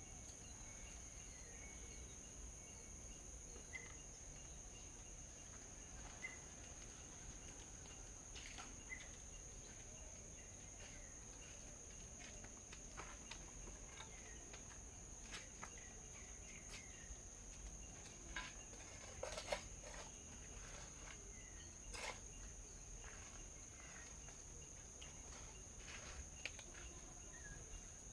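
Faint outdoor ambience of a steady, high-pitched insect drone such as crickets, with a bird giving short chirps every two to three seconds. Scattered light clicks and taps are heard throughout, the loudest cluster about two-thirds of the way in.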